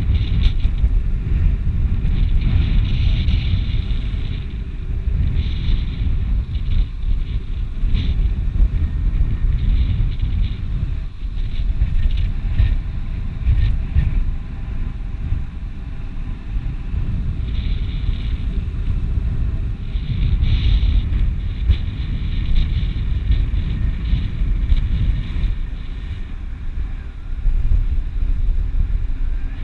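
Strong slope wind buffeting the microphone: a loud, gusting low rumble that swells and eases every few seconds, with patches of higher rushing hiss.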